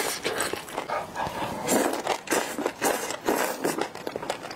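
Close-miked wet chewing and lip smacking on chili-oil-coated duck pieces, a quick irregular run of small crackly clicks and squelches.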